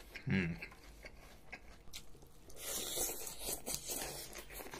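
A person chewing a mouthful of fresh salad greens close to the microphone, the chewing strongest around three seconds in. A short low hum from the eater comes about a third of a second in.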